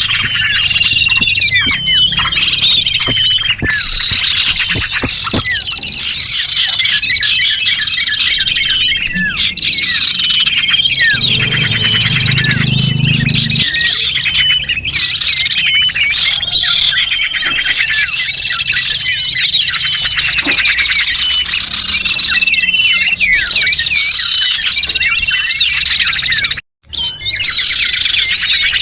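Bird-lure recording of a flock of small songbirds chirping and twittering at once, dense overlapping high calls and trills without a break. About 27 seconds in, the sound cuts out completely for a moment and then resumes, like a splice in a looped track.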